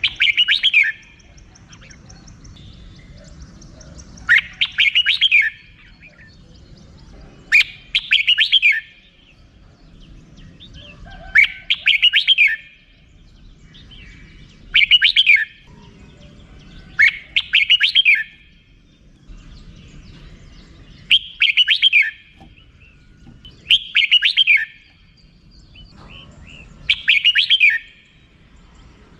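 Red-whiskered bulbul giving its rapid, rattling 'rik' chatter call. The calls come in nine short bursts of about a second each, roughly every three seconds.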